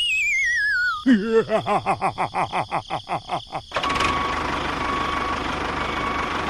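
Cartoon-style sound effects: a wobbling whistle slides down in pitch, then a rapid sputtering of about five pulses a second sinks in pitch for a couple of seconds, then a steady noisy rumble sets in.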